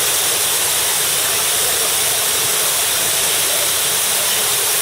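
Waterfall pouring: a steady, loud rush of falling water with a hiss, unbroken throughout.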